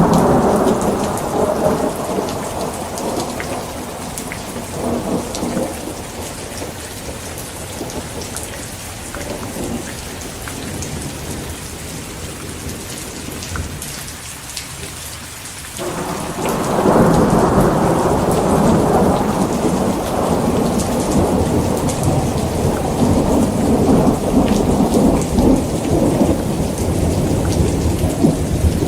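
Heavy rain falling steadily, with thunder. A rumble at the start dies away over the first few seconds, and about sixteen seconds in a long roll of thunder starts abruptly and keeps rumbling.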